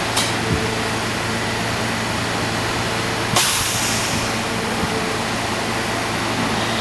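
New York City subway train standing at the platform, its equipment giving a steady hum. About three and a half seconds in, a sharp burst of compressed-air hiss fades out over about a second.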